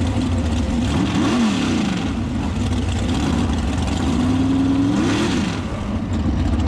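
Mega truck's big race engine running, with the throttle blipped twice: two sharp revs that climb and fall back, about one second in and again about five seconds in.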